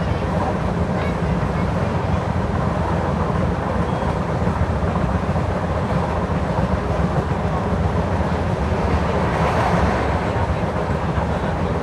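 An LHB passenger coach running along the track, heard from inside at the window: a steady rumble of wheels on rails and coach noise.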